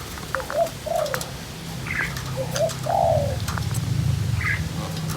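A dove cooing: a short rising note followed by a longer arched coo, given twice, with a couple of brief higher chirps from another bird in between. A steady low hum runs underneath.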